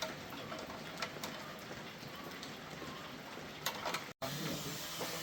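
A steady hiss with a few light clicks and taps scattered through it; the sound drops out completely for an instant about four seconds in.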